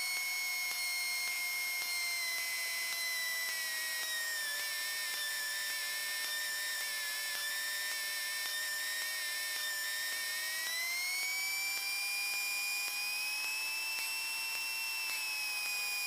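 Steady whine from the Cessna 172M's engine, heard through the cockpit intercom feed rather than as open cabin noise. It drops in pitch about four seconds in and climbs back about ten seconds later, following engine rpm as power is brought back and then added again around the landing.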